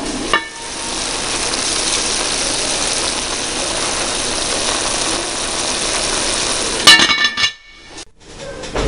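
Chicken cooking in an open enameled pot, a steady sizzling hiss that starts just after the lid comes off. A short clatter comes near the end.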